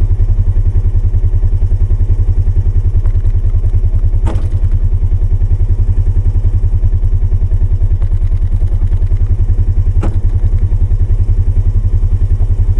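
Polaris 570's single-cylinder engine running steadily with an even, fast low pulse while plowing snow. Two sharp knocks come through, about four and ten seconds in.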